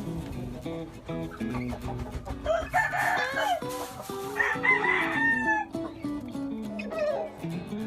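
Gamefowl roosters crowing twice in the middle, the second crow longer and falling at its end, over background guitar music.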